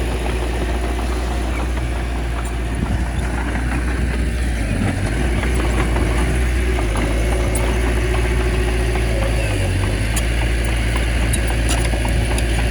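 Small bulldozer's diesel engine running steadily, with some light rattling.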